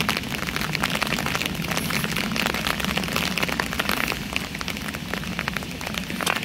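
Steady rain: a constant hiss thick with close, crisp hits of single drops, easing slightly in the second half.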